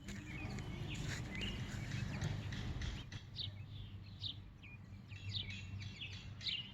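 A bird chirping repeatedly: short, high, falling chirps about once a second in the second half, over a low rumble in the first half.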